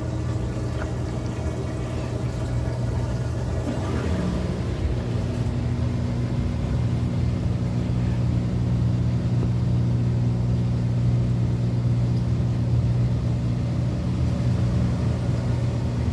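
Maytag Bravo top-load washer's drain pump running during the spin cycle: a steady low hum, with a second, higher tone joining about four seconds in and the sound growing louder toward the middle.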